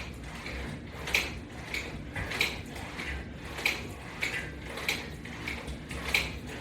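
Exercise attachment hardware clicking in time with the repetitions: a sharp click about every one and a quarter seconds, with a softer click halfway between.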